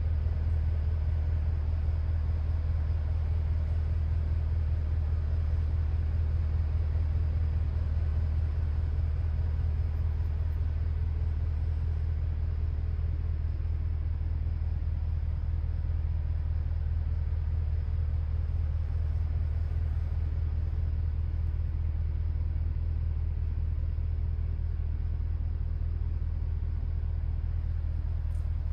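Bentley Continental GT V8's 4.0-litre twin-turbo V8 running steadily at an even pitch, with no revving, giving a low, unchanging rumble.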